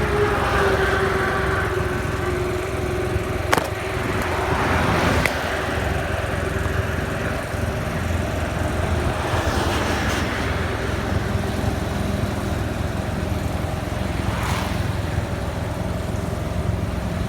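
Motorcycle engine running steadily while under way, over continuous road noise, with a couple of short sharp knocks about three and a half and five seconds in.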